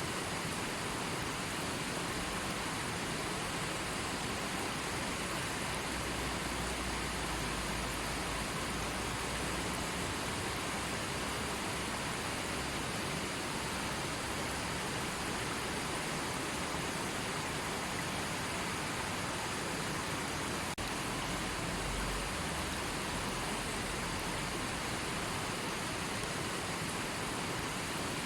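River water rushing steadily, a continuous even rush of flowing water.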